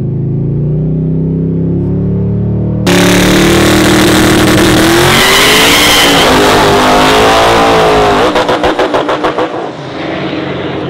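Turbocharged LS V8 drag truck engine under power: steady engine tone at first, then about three seconds in an abrupt jump to a much louder run at high revs, the pitch climbing and wavering. Near the end the sound flutters rapidly for about a second before easing off.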